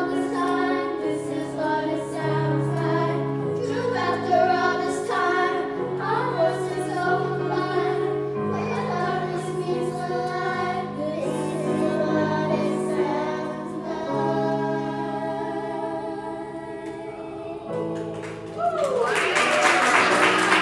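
Choir singing slow, sustained chords, the chords shifting every second or two. About nineteen seconds in, the singing ends and applause breaks out.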